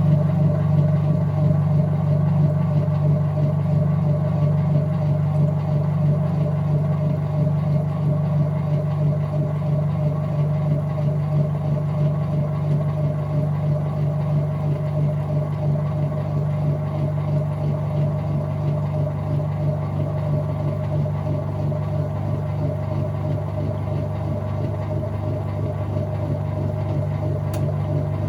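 Whirlpool top-load washing machine running with a steady motor hum and a constant tone, the motor having switched on abruptly just before.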